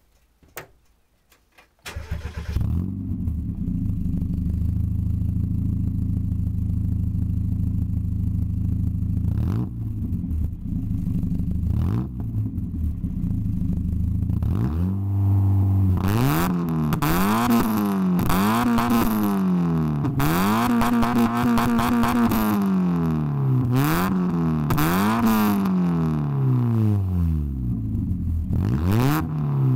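Mazda MX-5's four-cylinder engine starting about two seconds in through a loud exhaust built from eBay pipes, settling into a steady idle, then revved repeatedly from about halfway on, the pitch rising and falling with each blip of the throttle.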